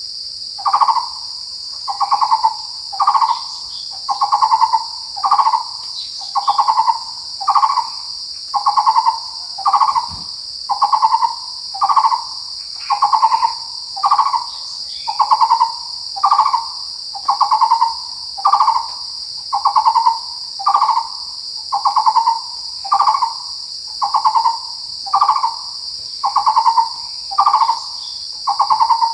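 Taiwan barbet calling: a long, steady series of hollow, low notes repeated about once a second without a break. Behind it, a continuous high insect drone.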